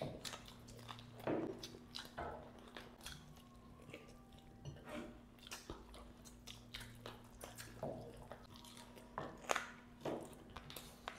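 Close-miked chewing and biting into masala-fried chicken leg pieces: irregular sharp clicks of teeth and mouth, with a few louder bites a little after a second and again near the end.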